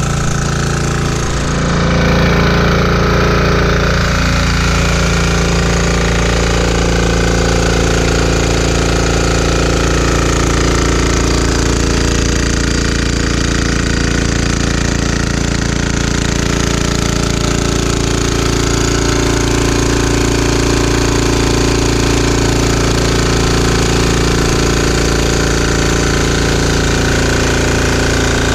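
A 196cc 168F single-cylinder diesel engine runs steadily, driving a generator with its typical rapid diesel clatter. It is burning #2 diesel and carrying a space heater load of about 12 amps. The sound gets slightly louder about two seconds in and then holds steady.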